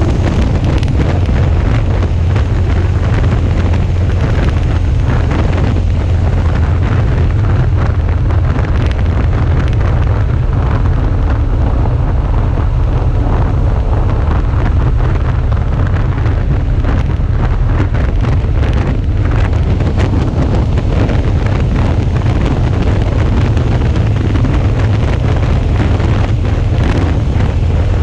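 Heavy, steady wind buffeting on an action camera's microphone while riding a Suzuki V-Strom 650 motorcycle at road speed, with engine and road noise blended into the low rumble.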